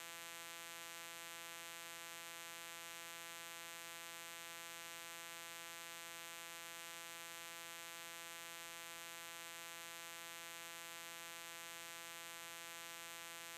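Faint, steady electrical hum or buzz in the aircraft's radio and intercom audio feed: one unchanging pitched tone with many evenly spaced overtones, over a light hiss.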